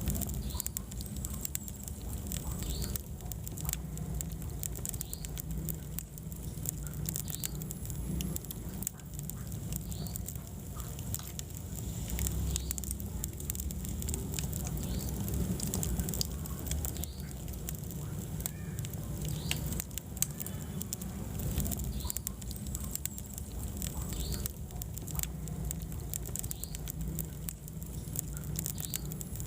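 Wood fire burning in a fireplace: a steady low rumble of flames with frequent sharp crackles and pops, and a few faint short squeaks now and then.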